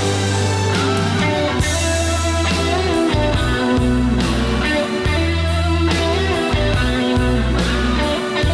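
Rock band playing live in an instrumental passage without vocals: guitar carrying the melody over sustained bass notes and drums, with cymbal crashes every second or two.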